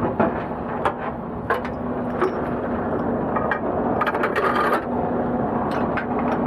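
Scattered metallic clicks and clanks, with a spell of rattling about four seconds in, over a steady low hum.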